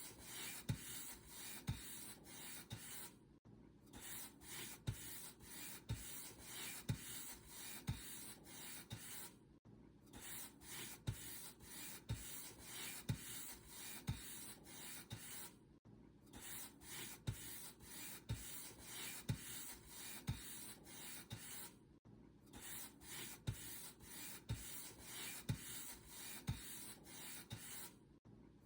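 Paint brush bristles stroking back and forth over a surface, a dry scratchy swishing at about two strokes a second, broken by a short pause roughly every six seconds.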